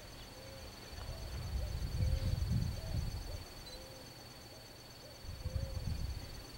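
A bird repeating a soft, low hooting note every second or so, with two swells of low rumble.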